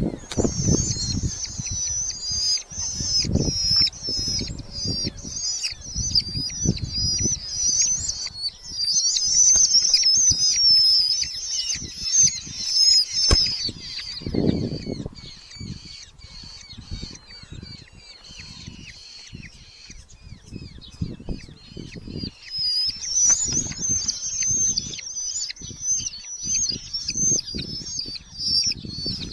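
Red-footed falcon chicks giving shrill, rapid chattering calls that fade in the middle and pick up again near the end, over thumps and rustling of the birds moving about the nest box.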